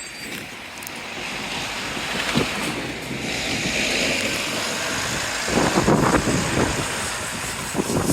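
Strong wind buffeting the microphone, with the noise of a passing road vehicle swelling up in the first few seconds; the buffeting grows heavier about two thirds of the way in.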